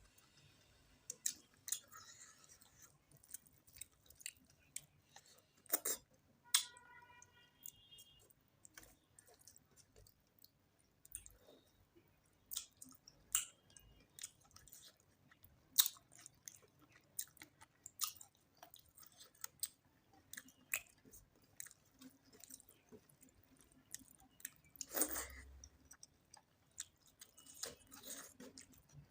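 Close-up eating sounds of rice and chicken curry: chewing with irregular wet mouth clicks and smacks.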